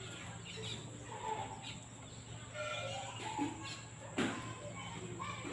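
Scattered short bird chirps and calls over a low steady hum, with one sharp knock a little after four seconds in.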